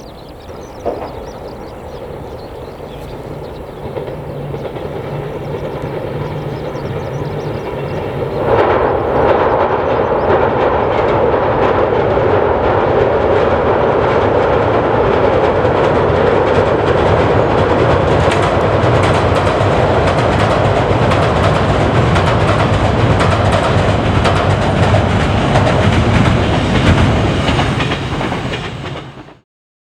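Commuter train approaching and passing close by, its wheels clattering over the rail joints. The sound grows for several seconds, turns suddenly loud as the train reaches the microphone, and cuts off abruptly near the end.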